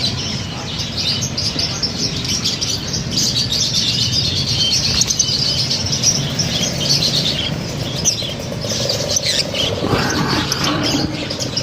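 Many lovebirds chirping at once: a dense, continuous high-pitched chatter of rapid chirps, over a low steady background noise.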